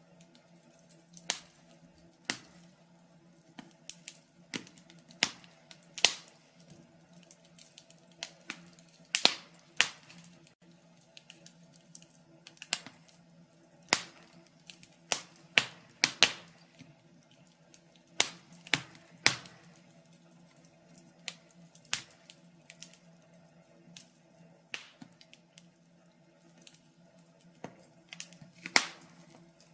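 Crackling wood fire: irregular sharp pops and snaps from the burning logs, roughly one a second and some much louder than others, over a faint steady low hum.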